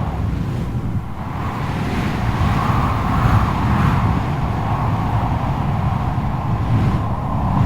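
Strong wind blowing in gusts: a deep rumble that swells and eases, with a whistling howl that wavers up and down.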